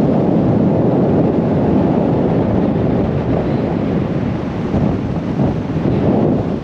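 Wind buffeting the microphone of a moving truck: a loud, steady, rough rumble with no clear engine note.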